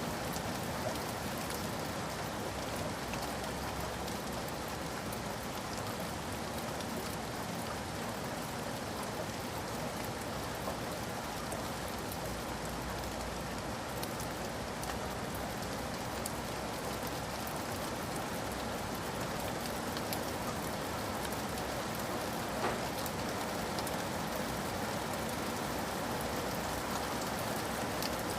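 Steady rain falling, with a few single louder drop taps now and then.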